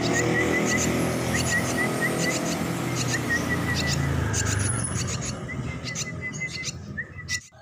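Young sriti swiftlets twittering in rapid runs of short, high chirps, over a steady low hum.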